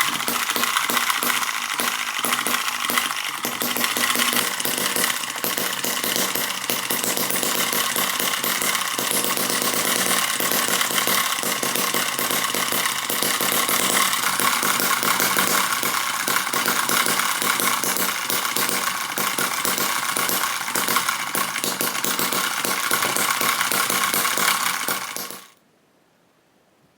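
A miniature four-stroke petrol engine model (Eachine EM2) running steadily at speed with a fast, rapid firing rattle. The sound cuts off suddenly near the end.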